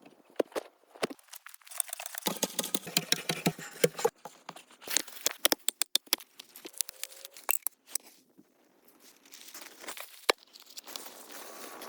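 Rustling and crackling with many sharp clicks and snaps, from materials being handled during shelter-building work; it dies down for a moment past the middle and then picks up again.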